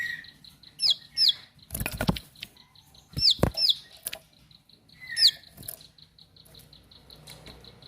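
Ciblek sawah (a prinia) calling short, sharp whistled notes that drop in pitch, mostly in pairs, over a fast, steady clicking. Two loud thumps come about two and three and a half seconds in.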